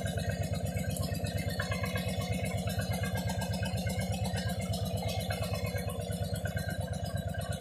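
1992 Yamaha XV400 Virago's air-cooled V-twin engine idling with a steady, even pulse.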